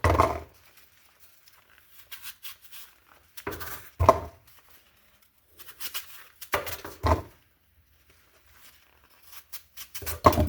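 A few sharp knocks and clacks, a few seconds apart, with light rustling and scraping between them: hands handling an apple, a knife and a plastic bowl with its lid during food prep.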